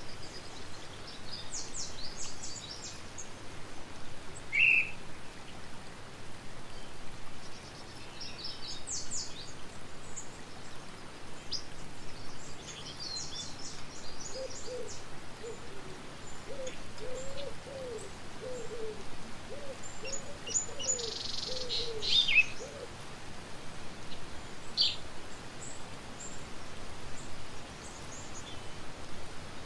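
Birds chirping and twittering over steady outdoor background noise, with a run of low hooting notes through the middle.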